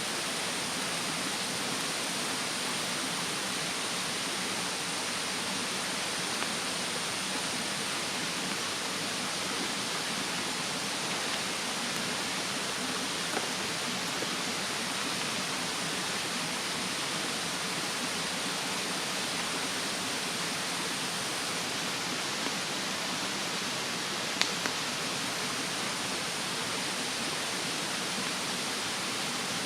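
Steady rush of a mountain stream under a wood campfire, with a few sharp crackles from the burning wood, the loudest about 24 seconds in. A thin, steady high insect note sits above it.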